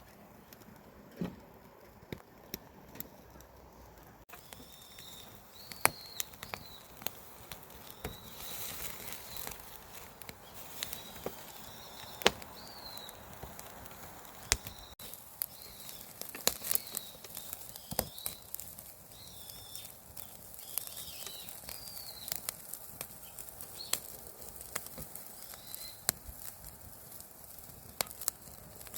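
Wood fire crackling, with irregular sharp pops and snaps over a low hiss. From about four seconds in, short high chirping calls come and go over it.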